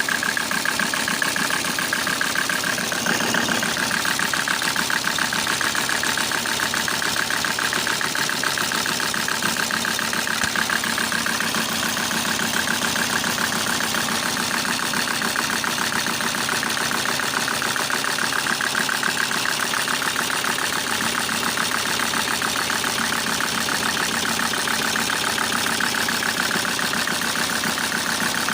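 Mercedes-Benz OM605 five-cylinder diesel engine idling steadily with a knock. The owner says it is misfiring and knocking, and he has not yet found the cause.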